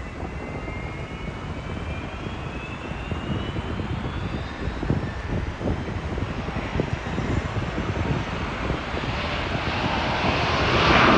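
Airbus A380 jet airliner approaching to land, its engine rumble growing steadily louder as it nears. A faint engine whine rises in pitch during the first few seconds.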